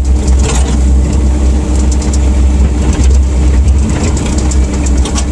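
CAT 305.5 mini excavator's diesel engine running steadily with a low drone.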